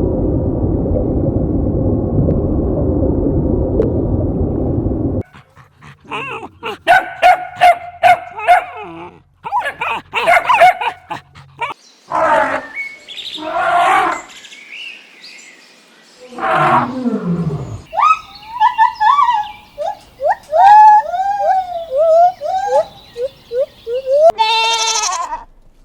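A string of different animal calls, one after another. It opens with a loud, low, rough roar lasting about five seconds. Then comes a run of short pitched calls and bleats, ending in a bleat.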